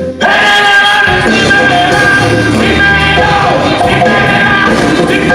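Live band music, loud and dense, coming in abruptly just after the start and holding at full level.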